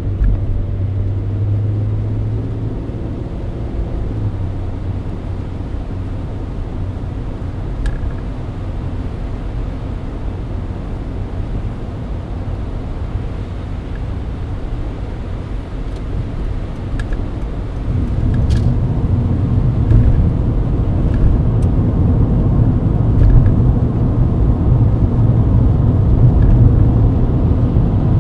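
Mercedes-Benz W124 cruising on a wet highway: steady engine and road noise with a low rumble, getting louder and heavier about eighteen seconds in.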